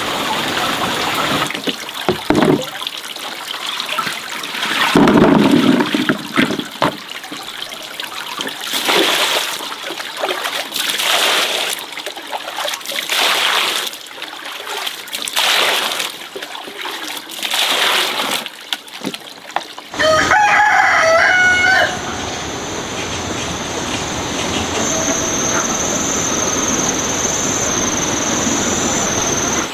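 A rooster crows once, about two-thirds of the way in. Before the crow comes a run of irregular noisy bursts; after it, a steady hiss.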